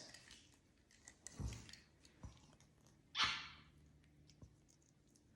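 Faint handling noises: a soft thump about a second in, a couple of light clicks, and a short rustle about three seconds in.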